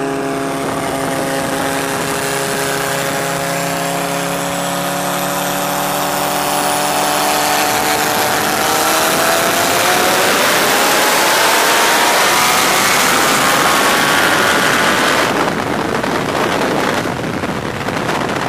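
A car engine cruising steadily from a 60 mph roll, then pulling hard under acceleration, its pitch climbing steadily for several seconds along with rising wind and road noise. The noise eases off suddenly about fifteen seconds in.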